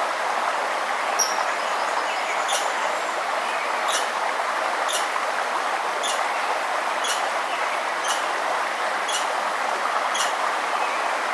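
Steady rushing of a forest river, with a bird repeating a short, sharp high call about once a second and a brief whistle about a second in.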